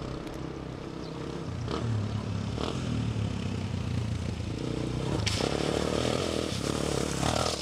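Motorcycle engines running, with a few sharp clicks and scrapes over the engine sound.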